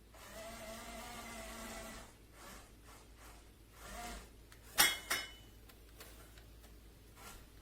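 Small electric motor of a toy RC monster truck whining steadily for about two seconds, then two sharp plastic clicks about a third of a second apart, near the middle.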